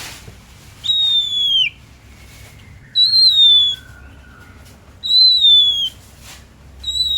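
Oriental magpie-robin (kacer) singing: four long, clear whistled notes about two seconds apart, each held briefly and then falling in pitch at the end.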